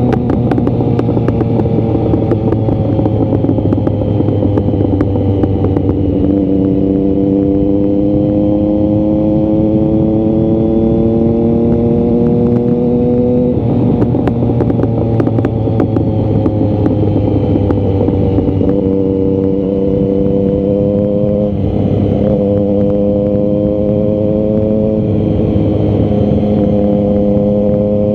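Triumph Speed Triple 1050's inline three-cylinder engine and exhaust, heard on the move. Its pitch climbs slowly in each gear and steps down several times at gear changes, over a steady rushing noise.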